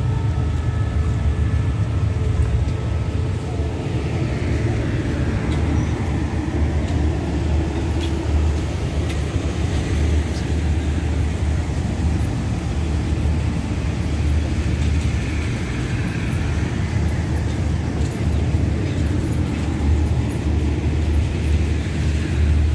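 Passenger train coaches rolling past close by: a steady, loud low rumble of wheels on rail.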